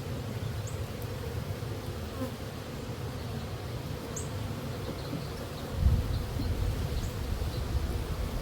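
Honeybees buzzing around an opened hive, a steady hum. A louder low rumble joins in about six seconds in.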